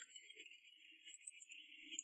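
Near silence: faint steady background with a thin high-pitched hum and no hammer blows.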